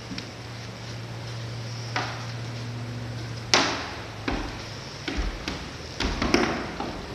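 Several sharp knocks and taps, the loudest about halfway through, over a steady low hum that stops a little past the middle.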